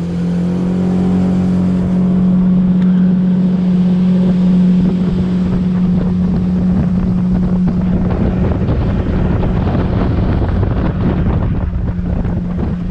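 A SeaArk jet boat's engine running at high throttle, holding a steady pitch after climbing just before, with water rushing past the hull and wind buffeting the microphone.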